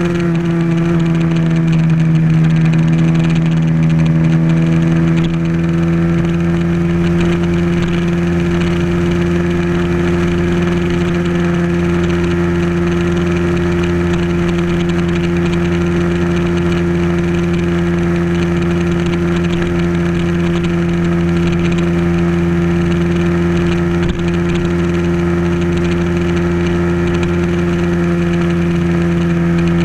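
Pulsar motorcycle's single-cylinder engine running at a steady highway cruise, heard close up from a camera mounted on the bike. Its pitch dips slightly in the first few seconds, then holds level.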